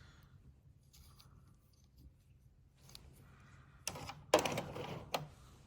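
Small die-cast toy cars clicking and clattering against each other as they are rummaged through and handled, in a few short bursts about four seconds in, ending with one sharp click.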